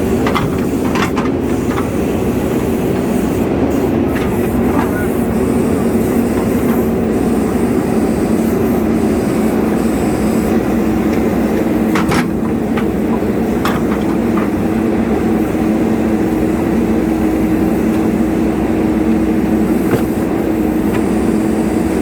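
Heavy diesel engine running steadily, with a few short clanks and knocks.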